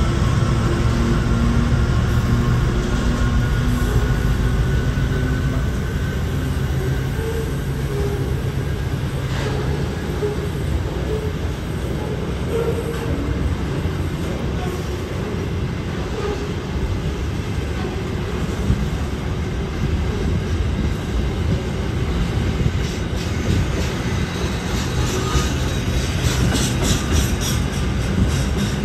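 A long freight train of hopper wagons rolling past, a steady rumble and clatter of wheels on rails. Rapid high-pitched clicking comes in near the end.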